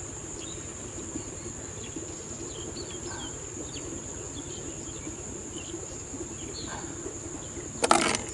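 Steady high-pitched insect chirring with a few faint bird chirps, then a brief loud rustle or knock near the end.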